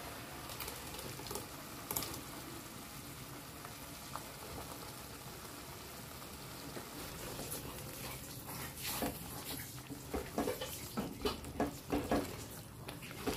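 Tomato and coconut paste sizzling in hot oil and masala in a non-stick kadai. From about eight seconds in, a wooden spatula scrapes and knocks against the pan several times a second as the paste is stirred.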